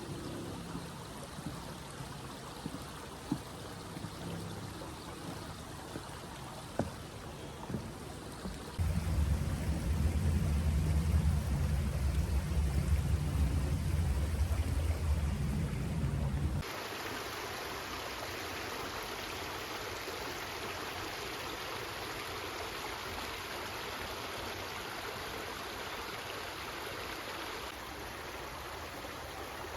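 Creek water running steadily, with a few sharp clicks in the first several seconds. From about 9 to 17 seconds in, a loud low rumble covers it. Then the rushing of the creek comes through steady and fuller to the end.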